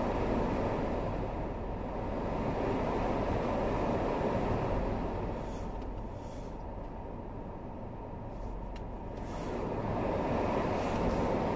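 Steady road and engine noise inside a moving car's cabin, a low even rumble that eases a little in the middle before returning.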